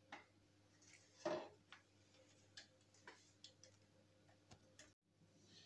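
Faint scattered clicks and taps of a hair dryer's plastic parts being handled during disassembly, with one louder knock about a second in.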